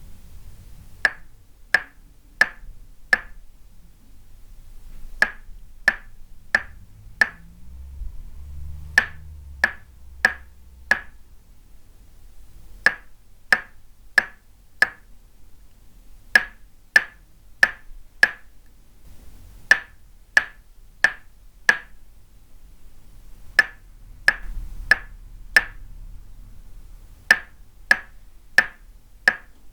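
Tok sen massage: a wooden mallet tapping a wooden peg held against the body, giving crisp woody knocks. They come in steady groups of four, about one every two-thirds of a second, with a short pause between groups.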